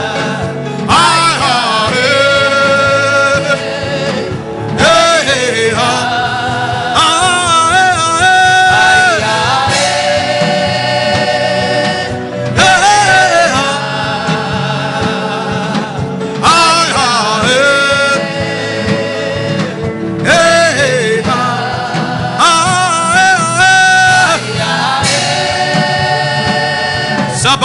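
Gospel worship singing: a sung melody with vibrato in repeated phrases of about four seconds, with short breaks between them, over steady instrumental accompaniment.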